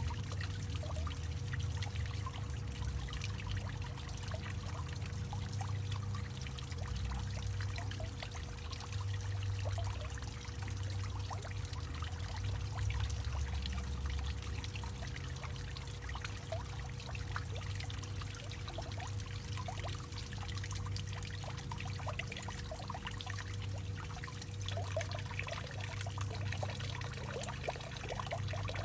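Water pouring and trickling in a hollowed-out tree, a steady patter of drips and splashes over a deep low rumble, with a faint steady tone underneath.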